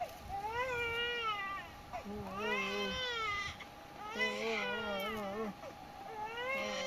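Infant crying: four wavering cries in a row, each about a second to a second and a half long, with short breaths between them.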